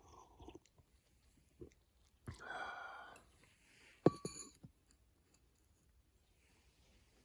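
A slurping sip of hot coffee lasting about a second, then a sharp knock with a brief ring as the cup is set down.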